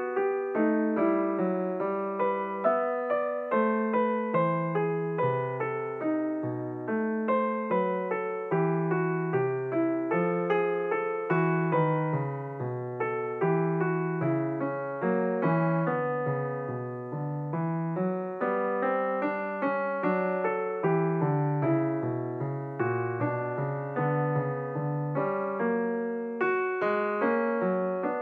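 Background piano music: a steady, unbroken run of struck notes, a few each second.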